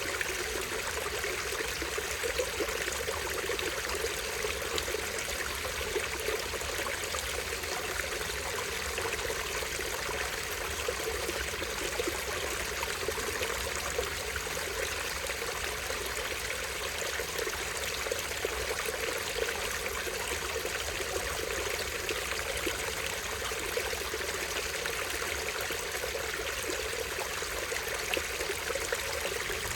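A small stream running over a tiny waterfall: a steady, even rush of water.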